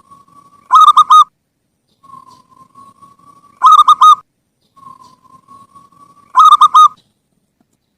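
Zebra dove (perkutut) singing its cooing song three times, about three seconds apart. Each phrase opens with a soft, slightly rising coo and ends in a loud burst of three or four quick rolling notes.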